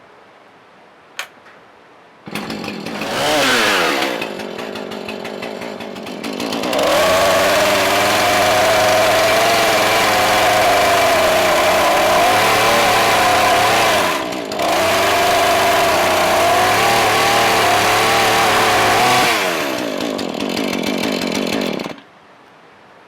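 A power tool's motor starts, rises and falls in speed once, then climbs to a steady high speed and holds it for about twelve seconds with one brief dip. It then winds down and stops.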